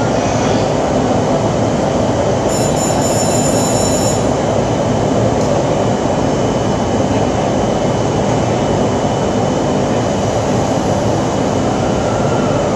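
Electric commuter train running along the platform as it pulls out, a steady rumble of wheels and motors, with a brief high-pitched squeal about three seconds in.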